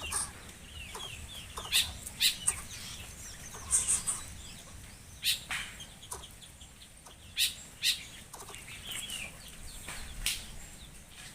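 Bird sounds: short chirps and clucks, broken by about seven sharp clicks spaced irregularly a second or two apart.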